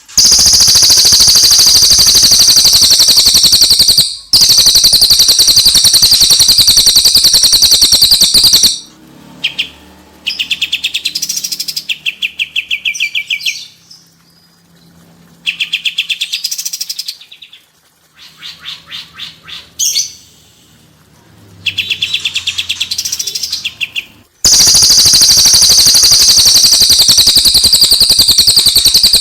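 Cililin and kapas tembak songbirds singing, with very fast, high, rolling trills ('ngerol'). A long unbroken trill opens the stretch, briefly broken once. Shorter trilled phrases with pauses follow through the middle, and another long unbroken trill runs from near the end onward.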